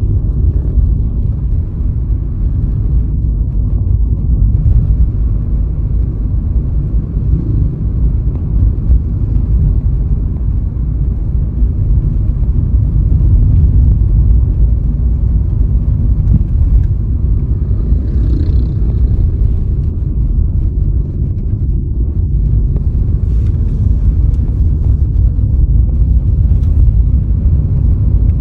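Steady low road rumble of a car driving, a dense deep drone of tyre and engine noise with little above it.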